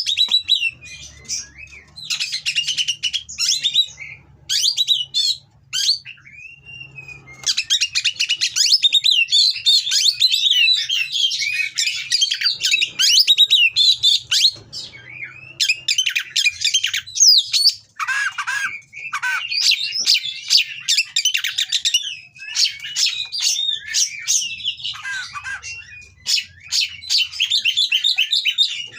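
An Oriental magpie-robin (kacer) singing a long, varied song of rapid chirps, whistles and harsh notes, broken by short pauses.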